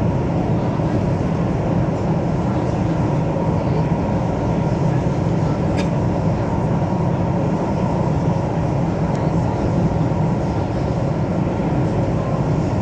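Steady running noise heard inside the cabin of an MTR South Island Line S-Train, a CNR Changchun electric multiple unit, as it travels between stations: a deep even rumble with a hiss above it. A faint short click comes about six seconds in.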